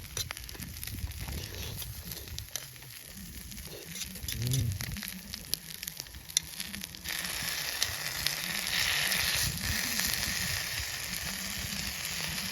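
Food sizzling in a frying pan over a campfire, with scattered crackles and ticks; the hiss turns louder and brighter about seven seconds in.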